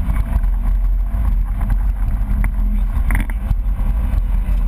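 BMW E30 rally car's engine running steadily under way, heard from inside the cabin, with road and wind noise.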